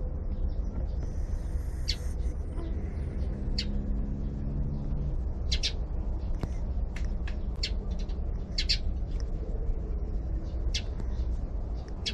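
Birds chirping in short, scattered high calls over a steady low rumble, with one low, drawn-out pitched sound lasting about two seconds, starting nearly three seconds in.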